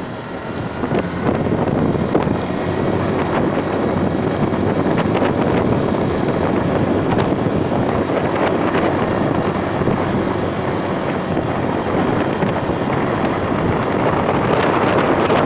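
Steady wind rush and buffeting on the microphone of a moving ride, swelling a little about a second in and then holding.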